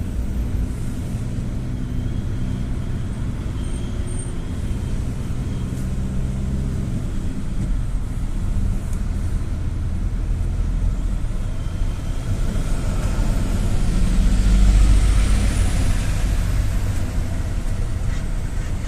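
A GAZ-A68R52 City minibus under way, heard from inside: steady engine and road rumble that swells to its loudest about fourteen to sixteen seconds in.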